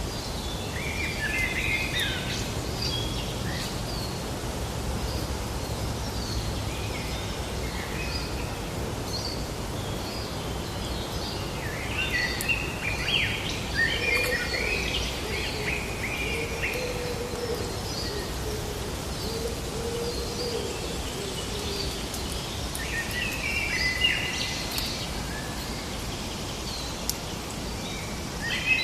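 Songbirds chirping and singing in several bursts over a steady background hiss of outdoor ambience, with a lower wavering call through the middle.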